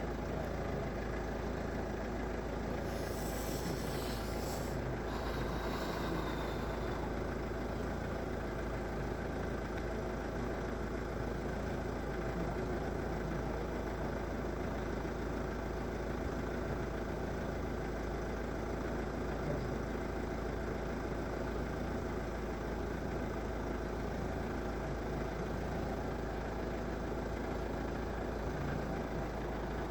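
A vehicle engine idling steadily, with a brief high hiss about three seconds in.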